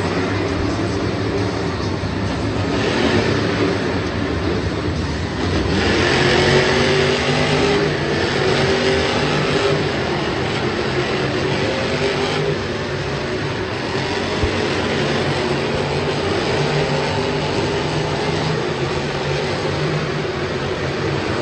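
Monster truck engines running loudly and revving, the engine pitch rising and falling over a steady rumble of noise.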